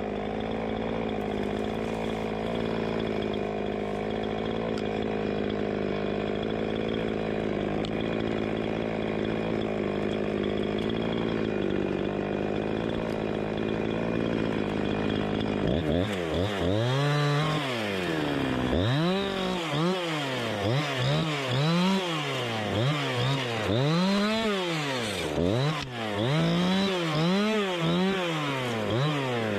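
Two-stroke chainsaw running steadily at idle. About halfway through it is revved up and down over and over, roughly once a second.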